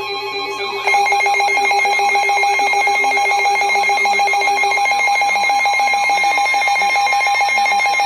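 Electronic weather-radio alert tones between warnings: a steady low tone, joined about a second in by a loud, rapidly pulsing high beep that keeps going while the low tone drops out about five seconds in.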